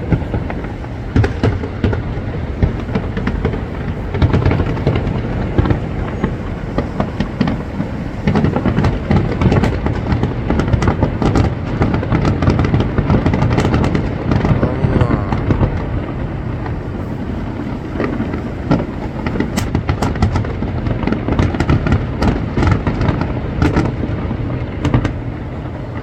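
Fireworks display: a continuous barrage of overlapping booms and crackling bursts over a deep rumble, with a denser run of sharp cracks in the second half.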